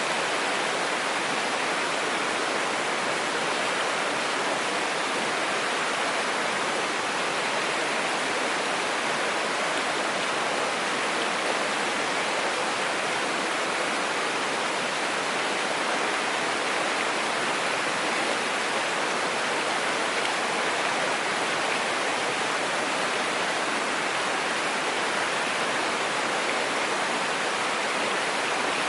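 Mountain stream rushing steadily over rocks, an even, unbroken noise of flowing water.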